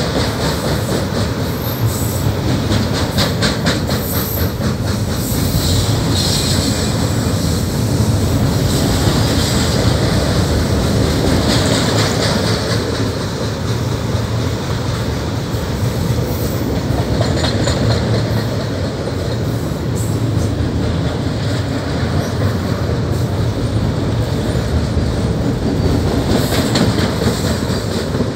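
Canadian Pacific freight train's autorack cars rolling past: the steady, loud rumble and clatter of steel wheels on rail. Rows of clicks from wheelsets passing over rail joints are clearest in the first few seconds.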